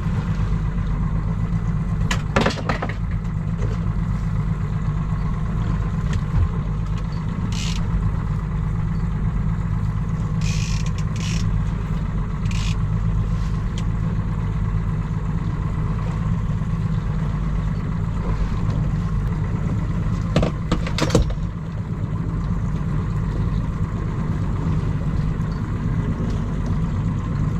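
Boat engine idling steadily, with a few short clicks and knocks from handling gear on deck.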